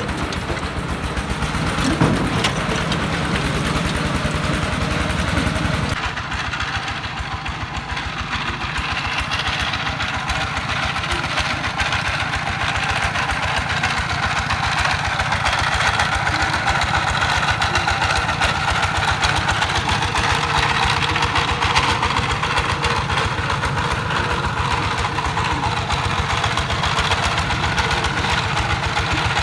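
Single-cylinder D22 diesel engine of a công nông farm truck running with an even, rapid chugging beat; its sound shifts about six seconds in, losing some of its low rumble.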